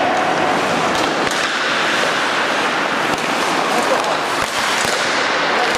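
Ice hockey game sounds: a steady hiss of skates on the ice with a few sharp clicks of sticks and puck scattered through, under players' distant voices.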